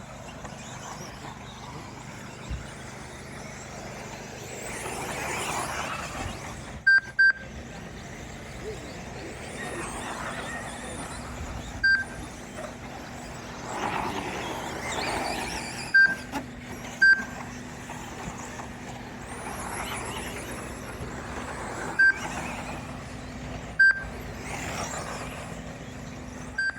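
Lap-timing system beeping as radio-controlled short course trucks cross the timing line: short, high beeps every few seconds, sometimes two close together. Underneath, the trucks' motors whine, rising and fading as they pass.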